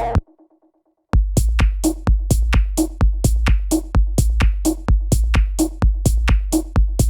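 Electronic techno beat made with Ableton Live 10's built-in devices: a steady kick drum and hi-hats with a short repeating tone. The beat cuts out just after the start, leaving a faint echoing tail, and starts again about a second in.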